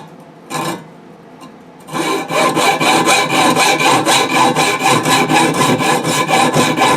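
Hacksaw cutting a 6013 welding rod clamped in a vise. There is one short stroke, then from about two seconds in a run of quick, even back-and-forth strokes.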